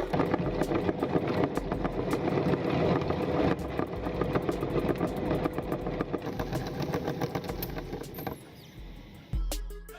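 Electric meat grinder motor running under load, with a rapid crackle of clicks from the grinding. It dies away about eight seconds in, and a music beat with heavy bass starts near the end.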